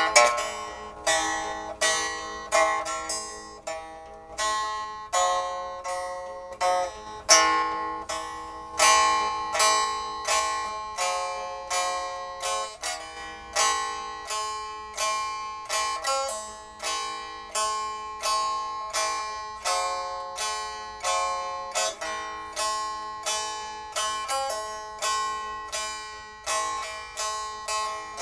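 Instrumental music on a plucked zither: a slow melody of single plucked notes, about two or three a second, each ringing and fading before the next.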